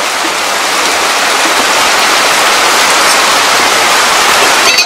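Heavy rain pouring down, a dense steady hiss that grows slightly louder and cuts off abruptly near the end.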